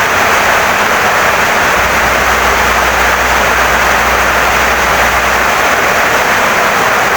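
Heavy rain pouring steadily on a wooden house, an even dense hiss. A faint low hum sits underneath for a few seconds in the middle.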